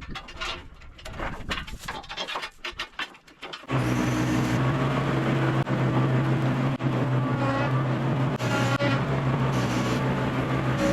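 A rapid, irregular clatter of small clicks and knocks from metal parts and tools being handled. About four seconds in it gives way abruptly to a steady engine running at an even speed with a low hum.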